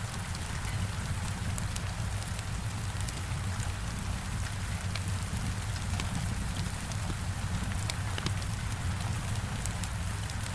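Heavy rain falling steadily with a low rumble, mixed with scattered small crackles and pops of a wood fire.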